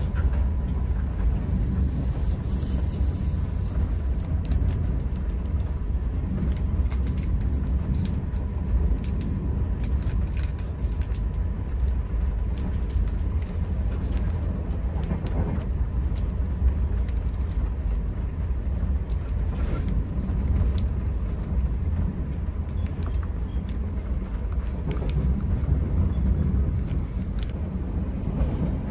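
Steady low rumble of a moving passenger train heard from inside the coach, with scattered light clicks over it.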